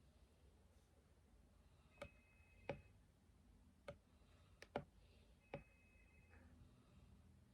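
About six short, sharp clicks, scattered irregularly from about two seconds in to just before six seconds, over near silence. A faint, thin high tone sounds twice, once together with the first clicks and again from the last click on.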